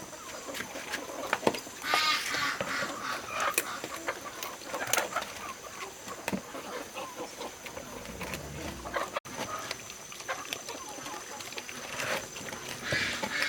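Chickens clucking, with calls about two seconds in and again near the end, among scattered light clicks and knocks.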